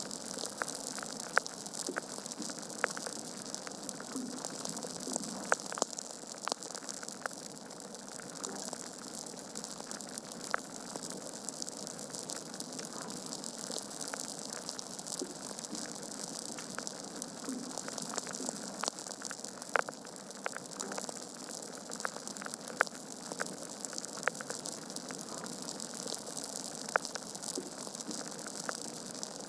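Log fire burning in a fireplace: a steady hiss of flames with irregular sharp crackles and pops, a few of them louder.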